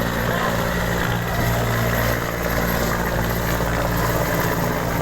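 Helicopter running, a loud, even sound with steady low tones.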